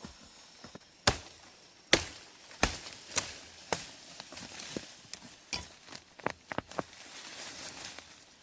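Blade chopping wood: a run of sharp strikes, five loud ones spaced a little over half a second apart, then lighter, quicker ones, with a rapid cluster of small hits near the end.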